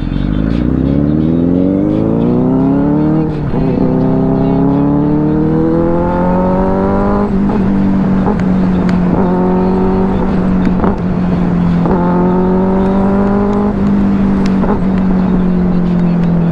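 Benelli 600i inline-four motorcycle engine accelerating hard through the gears: the pitch climbs, drops at each upshift about four times, then settles into a steady cruise.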